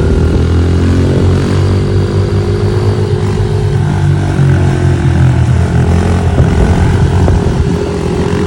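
Pit bike engines running under way, their pitch sliding and then holding steady as the throttle changes.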